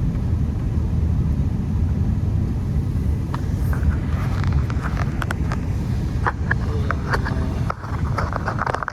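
Steady low rumble of a Honda Accord driving on a snowy road, engine and tyre noise heard from inside the cabin. From about three seconds in, scattered light clicks and ticks sound over it.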